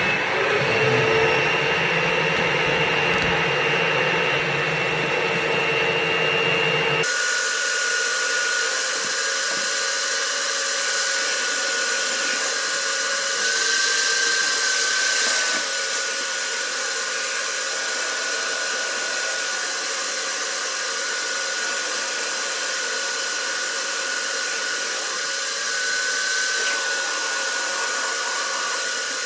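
Motor-driven dryer vent cleaning equipment running steadily with a high motor whine. The sound changes abruptly about seven seconds in, and the whine rises briefly twice later on as the motor speeds up.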